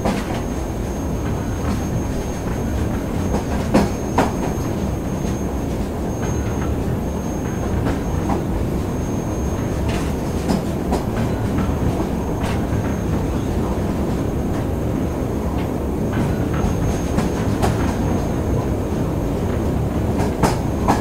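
Train ride sound: the steady rumble of a moving rail car, with a few sharp clicks and knocks over it and a thin, steady high whine.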